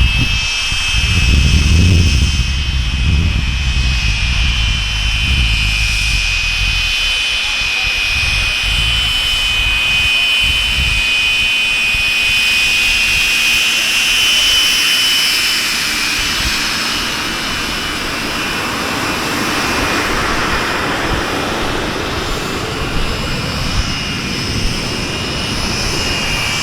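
Turbojet engines of a pair of BAC Strikemasters (Rolls-Royce Viper) running on the ground with a steady high-pitched whine of several tones, over a low rumble that fades after the first few seconds.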